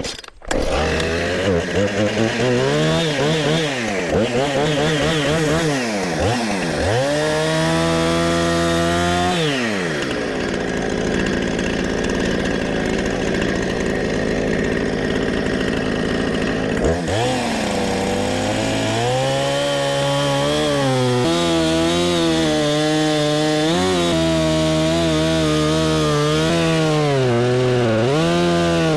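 20-inch Husqvarna two-stroke chainsaw running and cutting into a large black oak log. The revs rise and fall several times over the first ten seconds, then stay high with small dips as the bar works through the wood.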